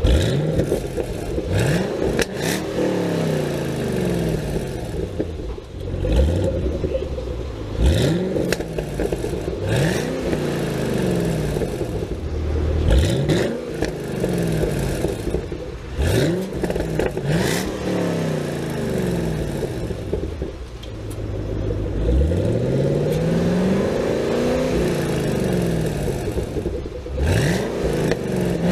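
2015 Chevrolet Camaro ZL1's supercharged 6.2-litre V8 revved repeatedly through its exhaust, each blip rising quickly in pitch and falling back toward idle, a few seconds apart. Short sharp cracks come between some of the revs.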